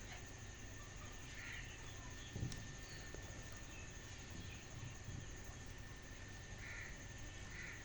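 Quiet outdoor ambience with a few short, distant bird calls, three or four of them, spaced several seconds apart, over a faint steady high hum. A single low thump comes about two and a half seconds in.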